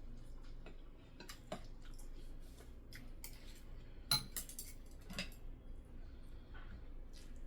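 Eating utensils clicking and tapping against dishes during a meal, a scatter of light clinks with the sharpest one about four seconds in.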